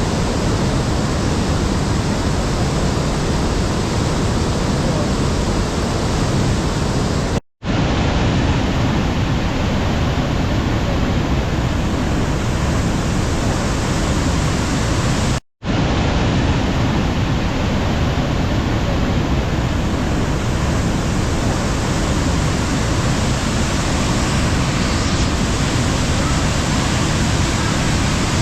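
Waterfall running full after heavy rains: a loud, steady rush of falling water, broken twice by a sudden split-second drop to silence.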